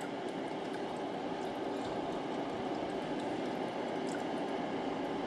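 Small Give Best space heater's fan blowing steadily on its low heat setting, an even airy hiss with no change in speed.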